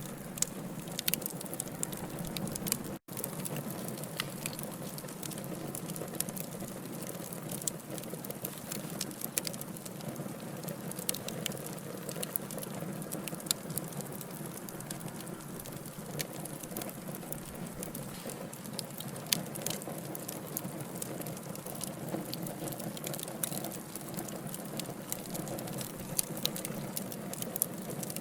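Burning wood logs crackling, with frequent small sharp pops over a steady low rush of flame. The sound cuts out for an instant about three seconds in.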